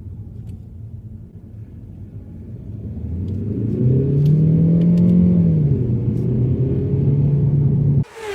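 Mazda3's engine running under load, growing louder about three seconds in, its note rising briefly and easing back, then held steady before cutting off abruptly near the end.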